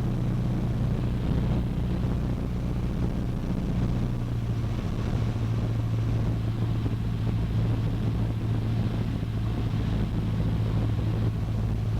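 Cessna 152's four-cylinder Lycoming engine and propeller droning steadily in flight, heard from inside the cabin; the pitch steps slightly lower about five seconds in as power is eased back for the descent.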